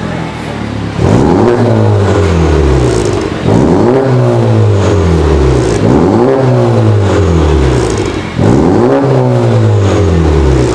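Honda Civic Type R FK8's turbocharged 2.0-litre four-cylinder revved four times through a Cende titanium full exhaust: each rev climbs quickly, then falls back slowly over about two seconds.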